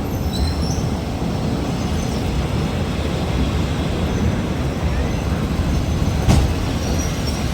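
Train rolling slowly past with a steady low rumble, one sharp knock about six seconds in, and faint high squeals from the wheels.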